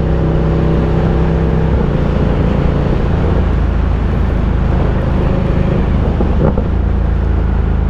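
Ducati Diavel 1260's 1262 cc V-twin engine running under way, with heavy wind and road noise over it. The engine note shifts about two seconds in and again about a second before the end.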